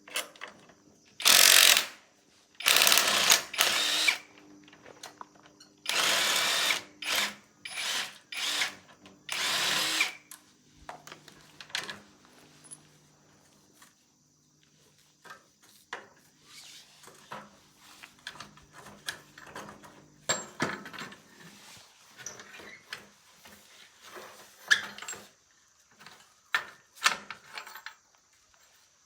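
A power tool run in several short bursts of half a second to a second and a half each, followed by quieter scattered clicks and knocks of handling.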